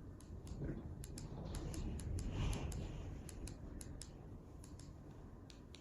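Light, irregular clicks and ticks, about three or four a second, over a low rumble that swells briefly around the middle.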